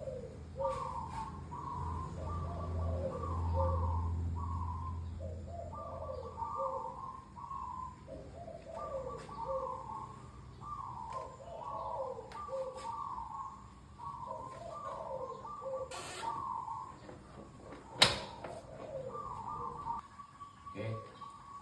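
A bird calling over and over in short phrases of quick, slurred notes, with a low hum in the first few seconds and a sharp knock near the end.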